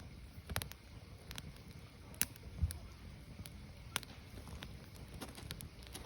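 Firewood burning: a low rumble of the fire with scattered sharp crackles and pops, the sharpest about two and four seconds in, and a dull low thump just after the first.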